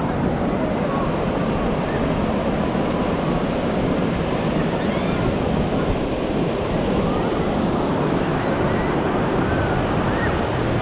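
Ocean surf: a steady rush of waves breaking and washing onto the shore.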